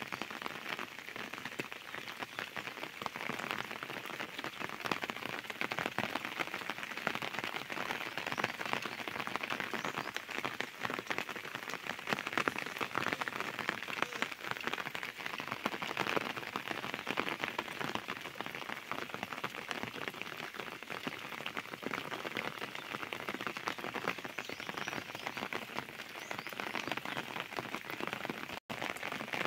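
Steady rain falling, a dense even hiss of drops with many small ticks.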